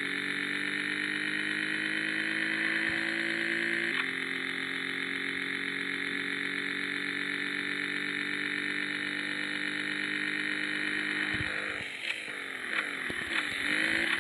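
Honda Hornet motorcycle engine under way, its revs climbing, dropping at a gear change about four seconds in, then climbing again. Near the end the revs fall away steeply as the bike slows, with a couple of short revs.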